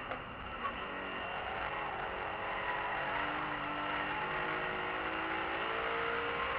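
BMW E46 M3's straight-six engine heard from inside the cabin, running under load, its pitch rising gradually from about three seconds in as the car accelerates, over steady road and tyre noise. Two small clicks and a brief dip in the engine sound come in the first second.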